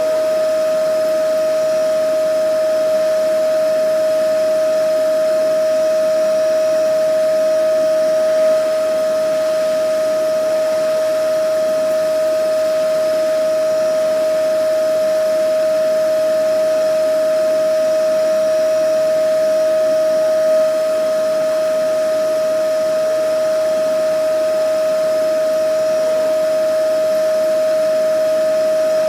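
Vacuum cleaner running steadily: an even whining hum with one strong high-pitched tone over a rushing hiss, unchanging throughout.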